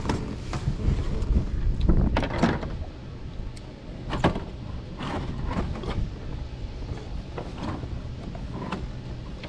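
Wind buffeting the microphone in a low rumble, with scattered knocks and clatter of handling, busiest in the first couple of seconds.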